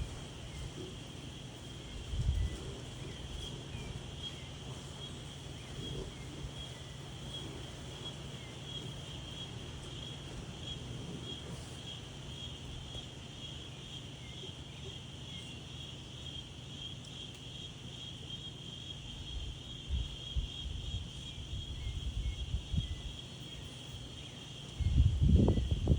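Insects chirping in a steady high-pitched pulsing chorus, like crickets. Gusts of wind rumble on the microphone a couple of seconds in and again near the end, the last gust the loudest.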